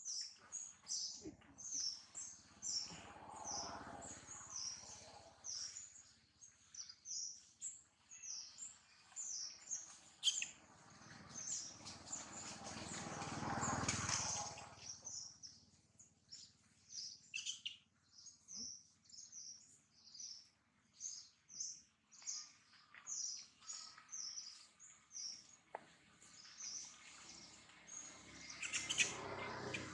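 A bird calling over and over with short high chirps, about two a second. A soft rushing noise swells and fades twice, most strongly about halfway through.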